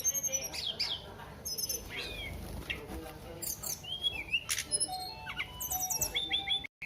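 Tledekan songbird singing vigorously: a rapid, varied run of sharp chirps, up-and-down whistled slurs and short trills. It breaks off for an instant near the end.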